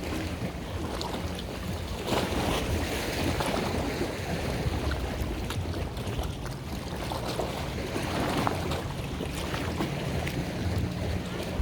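A boat's engine runs steadily under way, with water rushing and splashing and wind buffeting the microphone.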